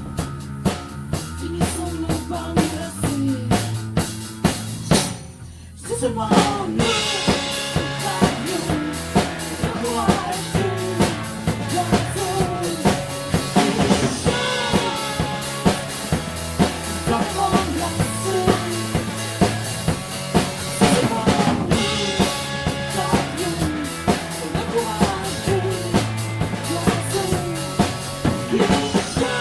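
Instrumental passage of a band's rock cover song: drum kit with kick, snare and rimshots keeping a steady beat under held bass notes and a gliding melodic lead. The band drops out briefly about five seconds in, then comes back in fuller.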